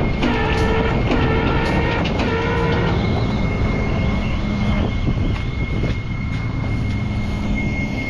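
Tow truck's warning beeper beeping steadily in a regular pattern and stopping about three seconds in, over the continuous running of the truck's diesel engine.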